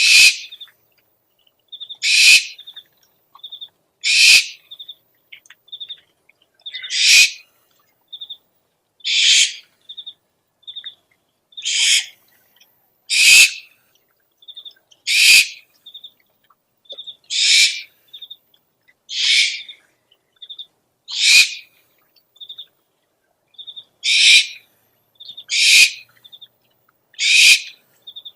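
Owl calls: a harsh, hissing screech about every two seconds, with short quick chittering notes between the screeches.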